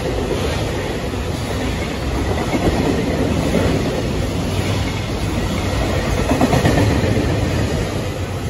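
A long container freight train's wagons rolling past close by at speed, a steady rumble of wheels on rail. The last wagon goes by near the end and the noise starts to fall away.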